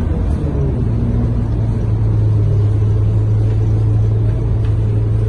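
Scania K230UB bus's five-cylinder diesel engine running steadily while the bus is under way, heard from inside the passenger cabin as a low rumble with a steady drone that settles in about a second in.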